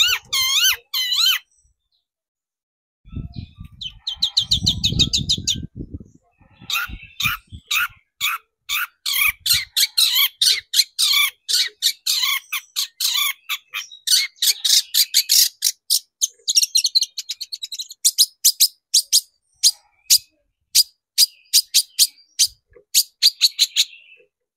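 Long-tailed shrike calling: long runs of sharp, clipped high notes, about two to three a second, after a short run of looping squeaky notes and a brief pause. A low rumble sounds about three to six seconds in.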